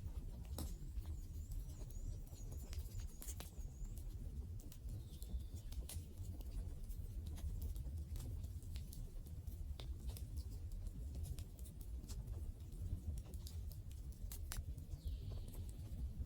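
Wood campfire crackling: irregular sharp pops and snaps over a steady low rumble of the flames.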